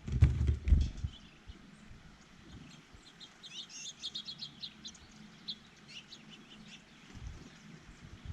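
Small birds at a feeder chirping, with a quick run of short high chirps a few seconds in. Near the start, a few dull thumps are louder than the birds.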